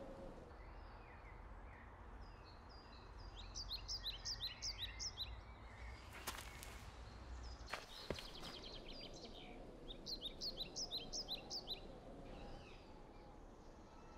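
Woodland birdsong over faint outdoor ambience: a songbird sings a quick run of high, repeated chirps about four seconds in and again about ten seconds in. A short rush of noise and a single click fall in between.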